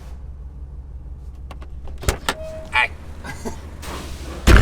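Car at idle with a steady low rumble, broken by several sharp clicks and knocks, a short squeak, and a loud thump near the end.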